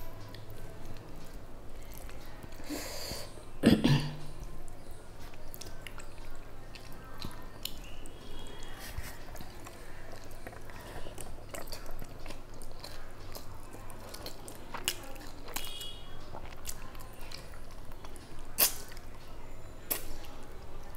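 A person eating rice and fish by hand close to the microphone: chewing and wet mouth sounds with many small clicks and smacks. A louder sharp sound comes about four seconds in.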